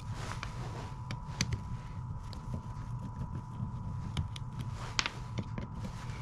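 Scattered light clicks and taps of small metal parts and tools being handled while the fuel shut-off actuator is taken apart, over a steady low rumble and a faint steady high tone.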